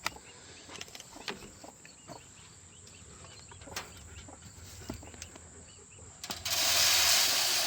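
Small clicks and knocks of containers being handled, then, about six and a half seconds in, a rushing hiss of poultry feed being poured into a dish, tailing off over about two seconds.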